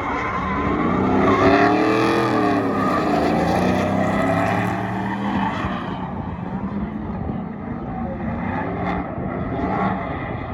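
Drift car engines revving up and down, strongest in the first half and easing off after about six seconds.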